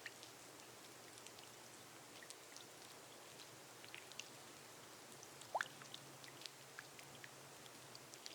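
Gentle rain falling on a glass roof: a soft, steady patter with scattered individual drops ticking. One louder drop plinks with a rising pitch about five and a half seconds in.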